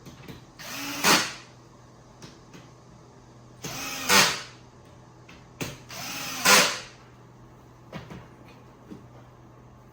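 Power drill-driver driving screws into the bed frame's panels: three short runs of about a second each, each ending in a louder, sharper burst, with a few light clicks in between.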